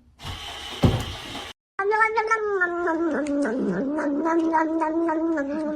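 A cat yowling: one long, drawn-out, wavering caterwaul starting about two seconds in, after a brief burst of noise with a thump.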